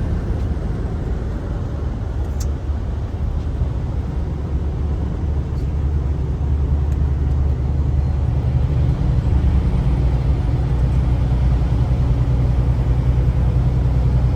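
Semi-truck's engine droning with tyre noise on a wet road, heard from inside the cab. The drone grows slightly louder about eight seconds in, and there is one faint click about two seconds in.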